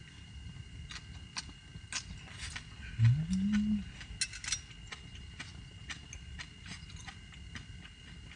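A dog gives one short groan that rises in pitch, about three seconds in, amid scattered light clicks and a faint steady high whine.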